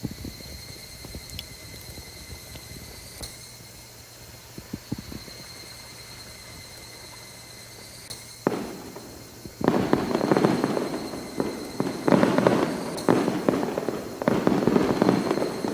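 Loud, irregular bursts of crackling and popping that start about nine seconds in and come in several clumps, after a quiet stretch with only a faint steady high tone.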